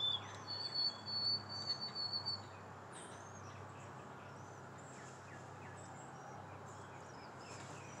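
Quiet outdoor ambience with a low steady hum; a small bird gives a high, thin trilling call lasting about two seconds near the start, followed by scattered faint chirps.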